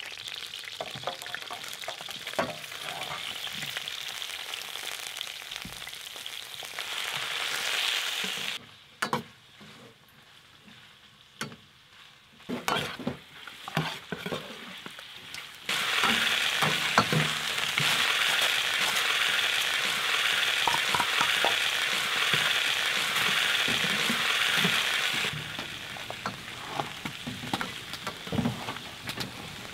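Ginger and scallion pieces sizzling in hot oil in a wok, with a metal ladle stirring and scraping against the pan. The sizzle drops away for a few seconds near the middle, then comes back louder for about ten seconds before easing off.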